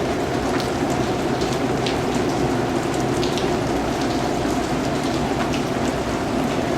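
Steady rain falling, a dense even hiss, with scattered louder individual drops ticking on a surface.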